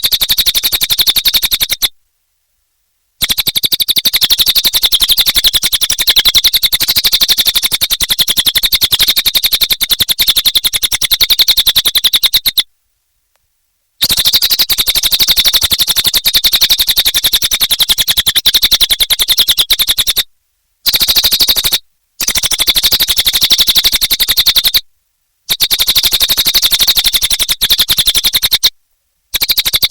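Cililin bird singing loudly in full voice: a very fast, buzzy chattering trill of rapid ticks. It comes in long bouts that stop abruptly for a second or so, several times.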